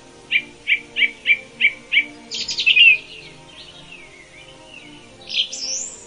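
Songbirds calling: a run of six quick, evenly spaced chirps about three a second, then a louder jumbled phrase and a rising whistle near the end, over faint background music.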